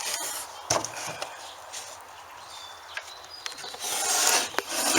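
Wooden cabinet panel being handled and rubbed, a dry scraping with a couple of knocks about a second in and a longer, louder scrape near the end.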